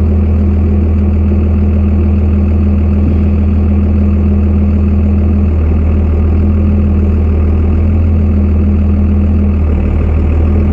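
Truck engine running at a steady low speed with an even low drone, as the truck drives slowly over frozen, snow-covered ground.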